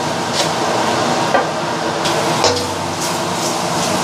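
Ground chili and garlic spice paste sizzling in a little hot oil in a stainless-steel wok while a wooden spatula stirs it, with a few short scrapes and knocks of the spatula on the pan, over a steady low hum. The paste is being sautéed until fragrant.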